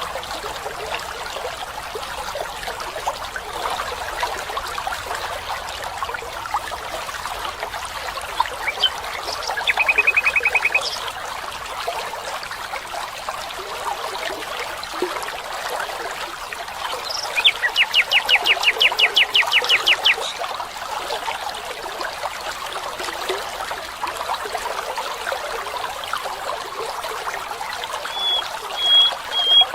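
Steady trickling water of a stream, with birds calling over it: a short rapid trill about ten seconds in, a longer rapid trill of quick repeated notes a few seconds later, and a few short high whistled notes near the end.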